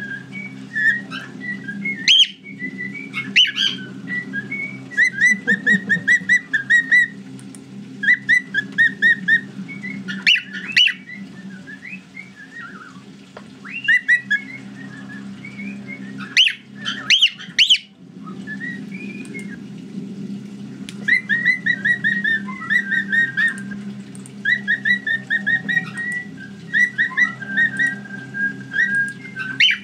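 Cockatiels whistling and chirping: runs of quick repeated chirps and warbling whistles, broken by a few loud sharp rising calls, over a steady low hum.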